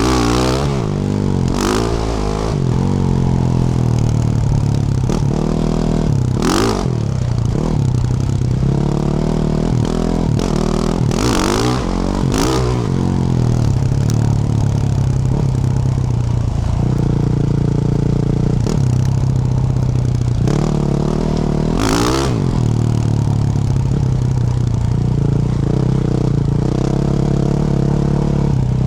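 2024 Yamaha YZ450F's single-cylinder four-stroke engine, fitted with a Yoshimura RS-12 exhaust, revving up and down under load while riding on a rough track. Several short, loud bursts of clattering noise come through, about a second in and again around 6, 11, 12 and 22 seconds in.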